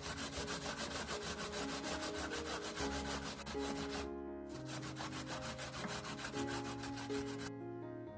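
Fast, rhythmic scraping strokes, about eight a second, in two runs with a short pause about four seconds in and stopping near the end, over soft background music.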